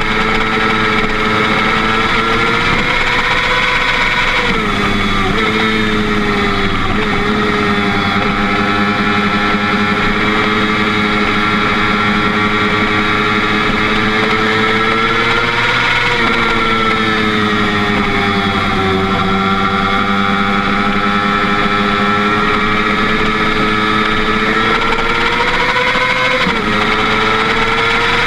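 Motorcycle engine running at road speed, its pitch rising and falling a few times as the throttle opens and closes through the bends.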